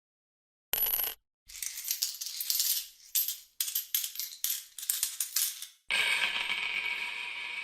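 Coins clinking and jingling in a run of short, sharp shakes or drops, then, about six seconds in, a sustained metallic ring that slowly fades.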